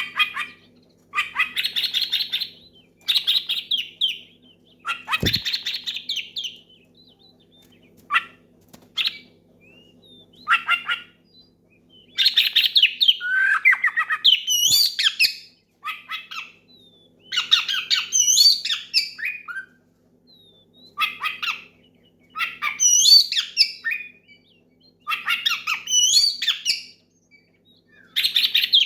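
Oriental magpie-robin (kacer) singing loudly in phrases repeated every second or two: bursts of rapid chattering notes mixed with clear whistled notes that rise and fall. This is a male's loud song calling out a rival. A soft bump comes about five seconds in, under a faint steady hum.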